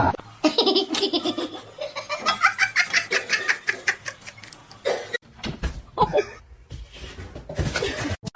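A person laughing hard in a fast run of short ha-ha pulses.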